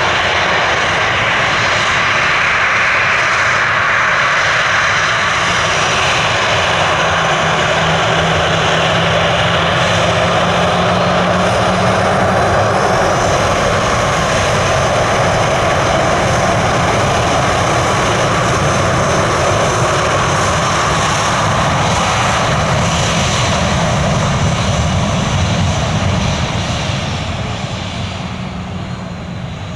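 Jet airliner engines, a loud steady roar with a high whine, as a plane passes close by. The roar fades away near the end.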